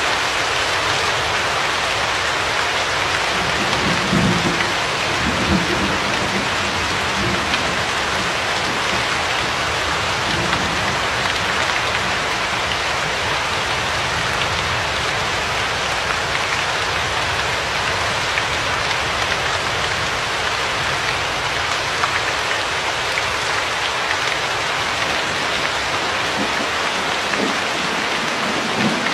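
Steady rain falling, with low rolls of distant thunder about four to six seconds in and again faintly near the end.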